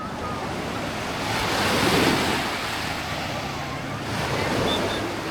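Small waves of a calm sea breaking and washing up the shore, one swell of surf rising to its loudest about two seconds in, then easing off.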